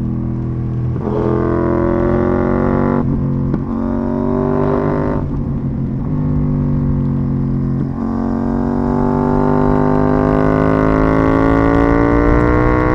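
KTM 790 Duke's parallel-twin engine through an IXRace MK2 aftermarket exhaust, heard onboard while riding. The pitch climbs under throttle, with brief breaks about one, three, five and eight seconds in where gears are changed, then one longer pull rising steadily to the end.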